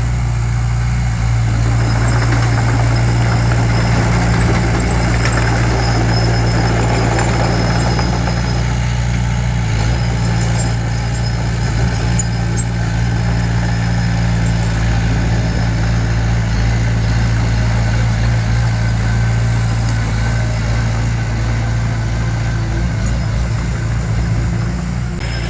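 Diesel engine of a bulldozer or dump truck running steadily, a constant low engine note.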